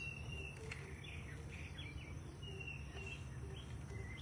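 Birds calling with short, high whistled chirps, several times, over a steady low outdoor rumble.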